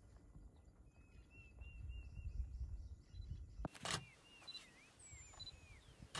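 Small birds calling in series of short, repeated chirps over a low wind rumble on the microphone. A little over halfway through the rumble drops away abruptly with a sharp click, and the chirping goes on along with one high descending whistle.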